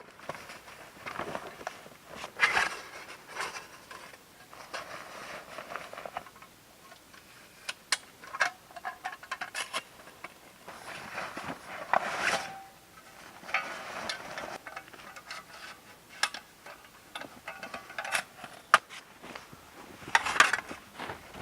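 Irregular rustling and scraping with scattered light knocks and clicks, like gear being handled.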